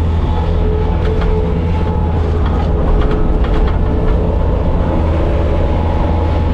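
Bobcat skid steer's diesel engine running steadily with a high whine over the drone, and a few knocks and rattles between about one and four seconds in.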